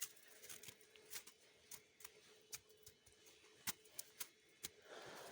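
Near silence: a faint steady hum with scattered soft clicks and ticks at irregular intervals.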